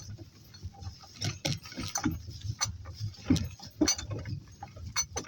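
Footsteps of a person and donkeys walking: irregular soft thuds and clicks.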